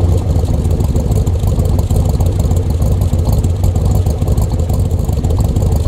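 Car engine running at a steady idle just after starting, loud, with a quick, even pulsing beat.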